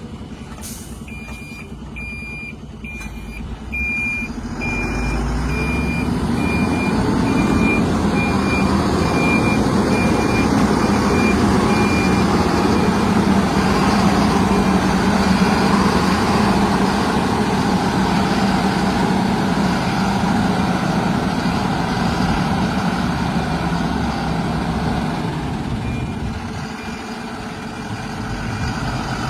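A heavy diesel machine's reversing alarm beeping about twice a second, stopping about twelve seconds in, while a big diesel engine runs hard under load. The engine grows louder about four seconds in and eases off near the end.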